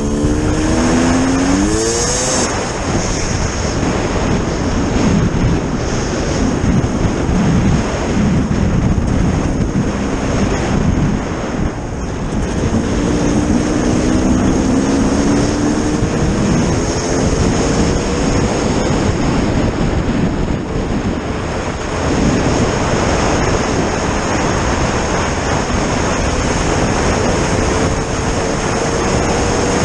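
A vehicle's engine running hard during a ride, its pitch climbing as it speeds up near the start and again about halfway through, under a constant loud rushing noise.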